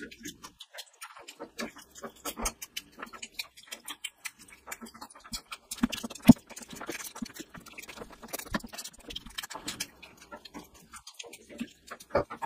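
Close-miked wet chewing and lip-smacking of a mouthful of oily mutton fat curry eaten by hand: a quick, uneven run of squelches and clicks, with one louder smack about six seconds in.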